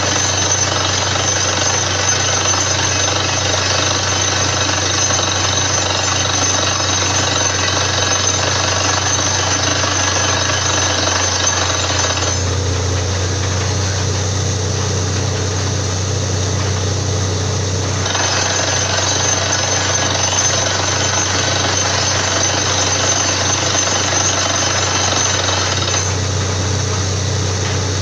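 Borewell drilling rig running continuously with a loud hammering clatter over a low engine hum. Near the middle the clatter eases for about five seconds, then comes back.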